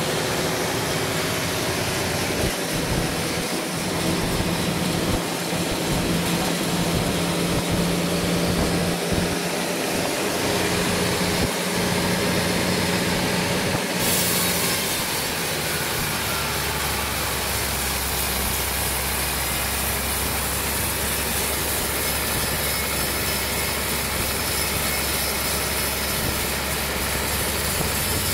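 Sawmill machinery running steadily. About halfway through the sound changes abruptly: a louder hiss comes in and a deep steady hum takes over.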